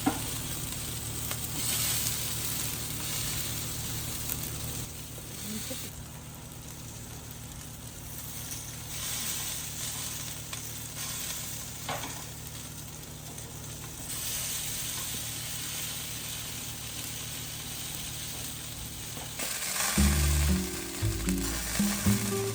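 Marinated chicken thighs sizzling steadily on a hot grill, the hiss shifting in level a few times as the shot changes. Background music comes in near the end.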